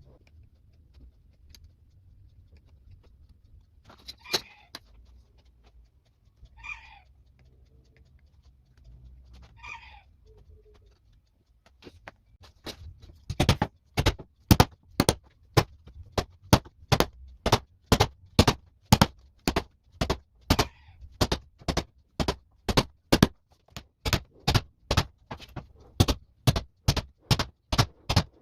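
Steady hammering, sharp blows at about two a second starting about halfway through, as when leather-working tools such as punches or stitching chisels are struck in making a leather bag. Before it come a few faint, short calls.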